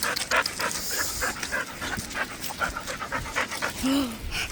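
A dog panting rapidly and rhythmically, about three or four breaths a second, winded from chasing a ball.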